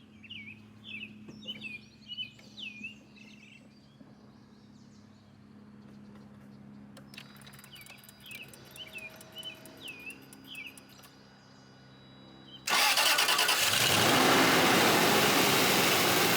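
Birds chirping in short phrases, then about thirteen seconds in the 2006 Land Rover LR3's 4.4-litre V8 starts up and runs steadily, on its first start after its ignition coils have been replaced.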